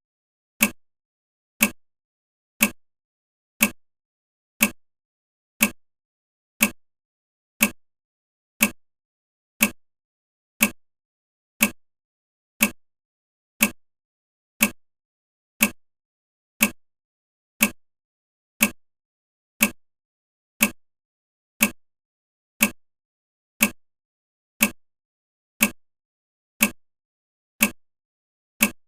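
A sharp, identical click repeating evenly about once a second, each one dying away quickly, with silence between.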